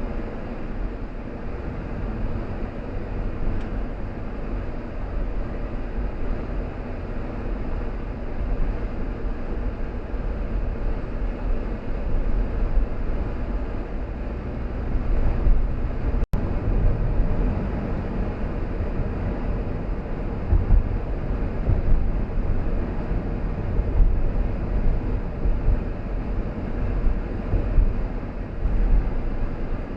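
Car driving along: steady low engine and road rumble that swells now and then, with the sound cutting out for an instant about halfway through.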